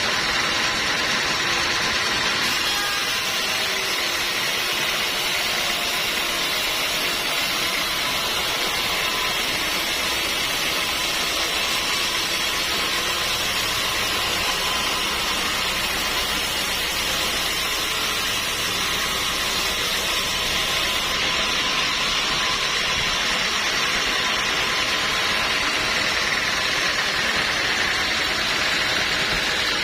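Sawmill machinery running steadily: a continuous, hissy machine noise that holds at one level throughout.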